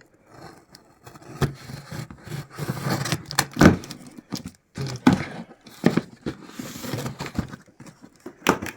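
A cardboard box and its packaging being opened and handled by hand: irregular scraping and rustling with several sharp knocks, the loudest about three and a half seconds in.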